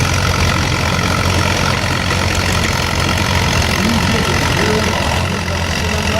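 Heavy tractor engine running steadily at an even pitch, loud, with no revving up or down.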